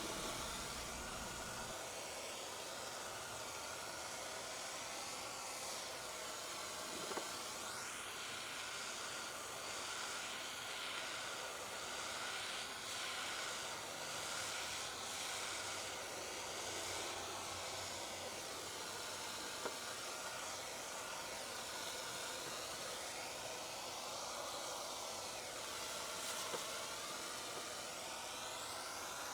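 Handheld propane torch burning with a steady hiss, its tone wavering slowly up and down, as it scorches cedar to darken it.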